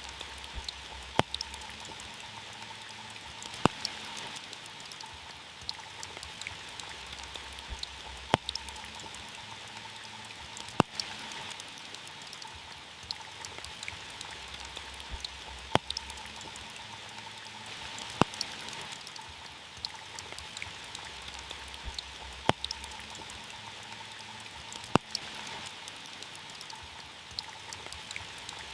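Heavy rain falling on a car: a steady patter with sharp, louder single drops striking every two to three seconds.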